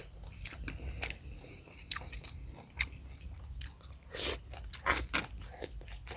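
A person chewing and biting on a mouthful of stir-fried beef and rice, with scattered small clicks and a few short louder crunches.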